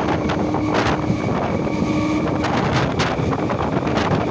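Indian electric local train running at speed: wind buffets the microphone over a steady rumble of wheels on the track, with occasional sharp clicks and a faint hum that comes and goes.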